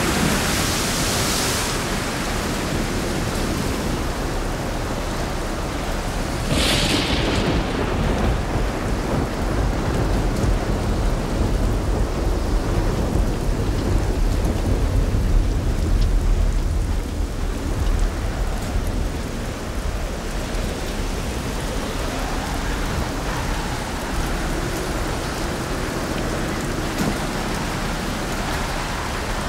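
Steady rain falling, with thunder: a crack about seven seconds in, followed by a deep rumble rolling on for about ten seconds before the rain is left alone.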